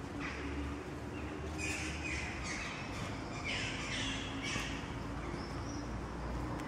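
A series of short, harsh bird caws, about seven, each falling in pitch, coming in quick bunches in the middle of the stretch.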